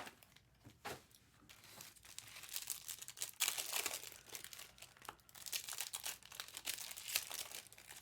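Faint crinkling and rustling of plastic packaging being handled, in irregular crackly runs that come thickest around the middle and again near the end.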